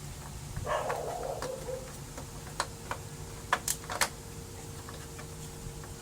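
A short dog whine about a second in, then a few sharp clicks and knocks of small plastic parts being handled.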